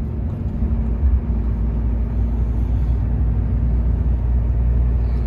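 Steady low drone of a Volvo semi truck's diesel engine and road noise, heard from inside the cab while driving.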